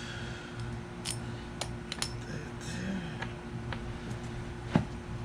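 Small metal parts being handled during reassembly of a Viair air compressor: scattered light clicks and clinks, with one sharper knock near the end.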